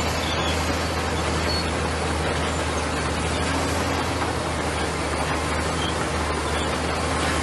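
Komatsu bulldozer's diesel engine running steadily, a constant low hum under a rough, noisy wash.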